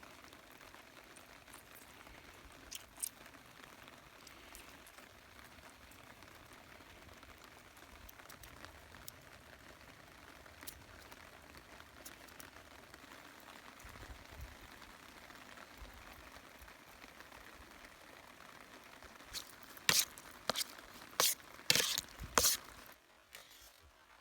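Steady rain pattering with scattered faint drips, then a quick run of about seven sharp clicks or knocks near the end.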